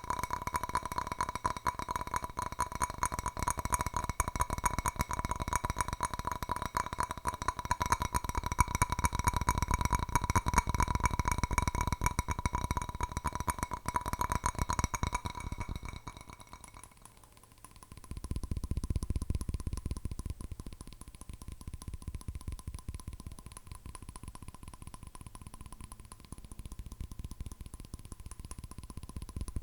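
Fast fingernail tapping on a hard object that rings with a steady tone. Near the middle it dies down briefly, then picks up again on a duller-sounding surface with only a faint ring.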